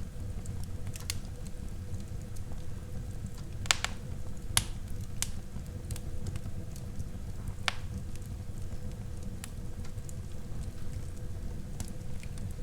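Wood fire burning in a fireplace: a steady low rumble of flames with scattered sharp crackles and pops, the loudest a few seconds in.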